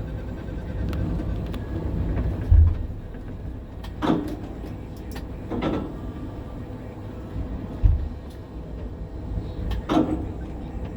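Wind buffeting the microphone high on a tower crane: a steady low rumble with two heavy buffets, about two and a half and eight seconds in. Three short, sharp sounds stand out over it, near four, six and ten seconds in.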